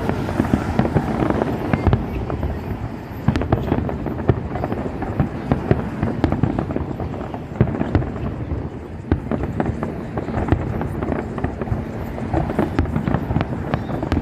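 Aerial fireworks display going off: a dense, continuous run of sharp bangs and crackles over a low rumble.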